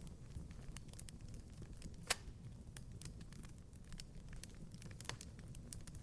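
Wood fire crackling in a fireplace: irregular small snaps and ticks over a low rumble of flame, with one sharper pop about two seconds in.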